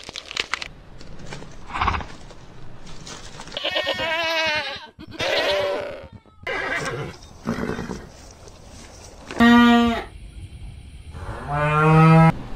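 Farm animals calling: a string of short, separate pitched cries, some wavering, the loudest two about nine and a half and twelve seconds in.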